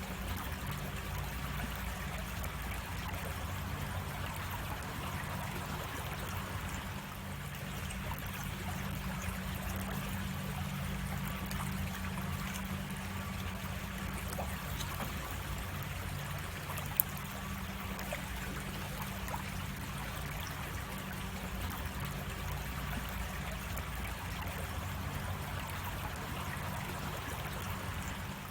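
Creek water running and splashing over a small cascade, a steady even rush. A single sharp click stands out about seventeen seconds in.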